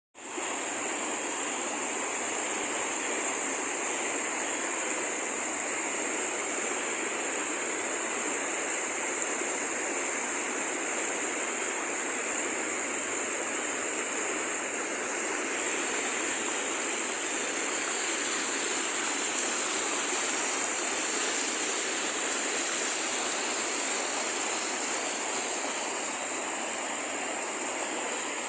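Waterfall: water pouring and rushing steadily, with a strong high hiss.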